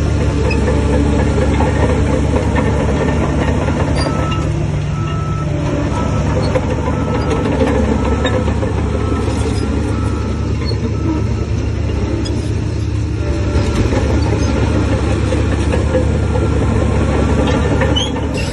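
Heavy diesel engine of a Shantui bulldozer running steadily under load. A faint, even beeping repeats for several seconds in the middle.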